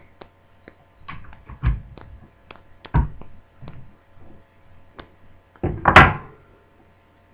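Handling noise from working a glued magnet out of a plastic laptop lid: scattered clicks and light taps, then one loud thunk about six seconds in.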